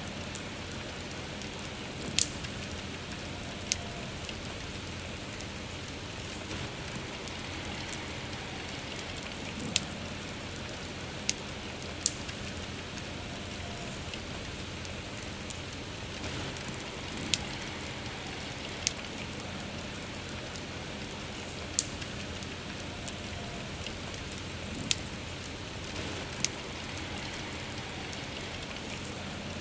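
Steady rain with a wood fire crackling, sharp loud pops every few seconds over the even hiss of the rain.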